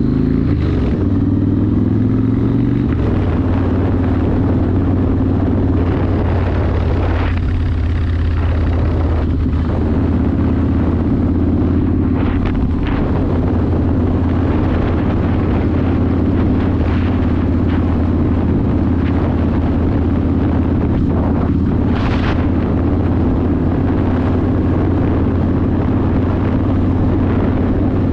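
Yamaha Warrior 1700's air-cooled V-twin running through a custom exhaust at a steady cruise. Its pitch drops a little about three seconds in, then holds steady.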